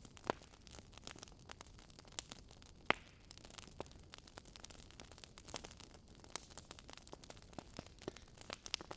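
Wood fire crackling: irregular sharp pops and snaps over a faint hiss, with two louder pops, one just after the start and one about three seconds in.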